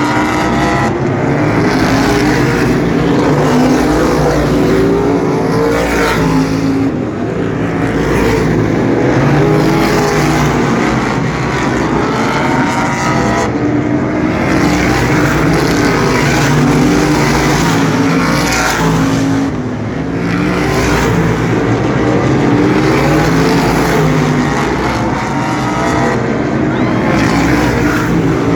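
A field of asphalt sprint cars racing, many engines running hard at once. The sound swells and fades with a sweep in pitch every 6 to 7 seconds as cars pass lap after lap.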